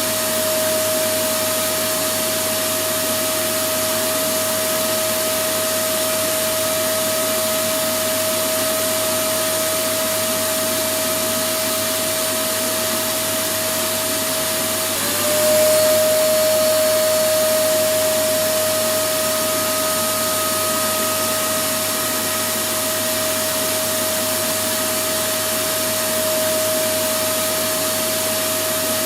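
Electric vacuum cleaner running steadily: an even rushing hiss with a steady whine. About halfway through, the whine dips for a moment and comes back slightly higher and a little louder.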